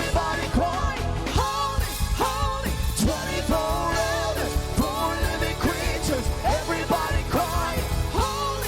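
Live worship band music: drums and bass keep a steady beat while a gliding melody, sung or played, rises and falls over them.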